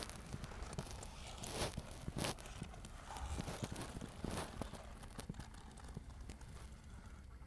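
Horses moving about: irregular footsteps and crunching, with a few short, louder scuffs about one and a half, two and four and a half seconds in.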